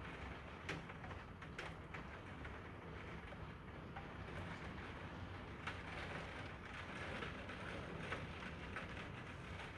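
Heavy rain pouring down in a thunderstorm: a steady hiss with a low rumble underneath and a few sharp ticks of drops striking something close.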